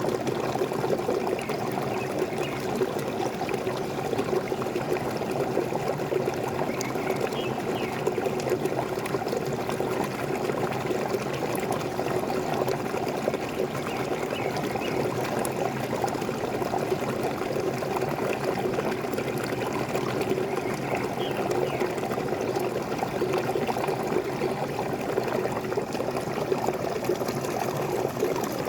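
Waterfall: a steady, unbroken rush of falling water splashing and pouring.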